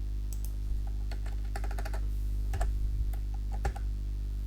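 Typing on a computer keyboard: irregular clicks and taps in small clusters, over a steady low electrical hum.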